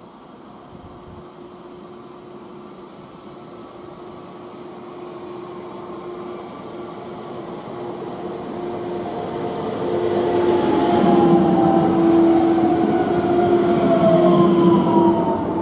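EN98a electric multiple unit approaching along the platform track and drawing alongside, growing steadily louder. A steady whine runs throughout, and from about ten seconds in higher whines slide down in pitch as it passes close by.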